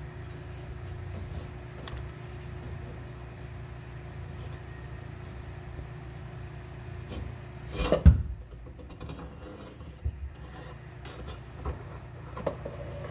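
Rubbing and scraping of parts being worked loose under a car, over a steady low hum, with one loud knock about eight seconds in.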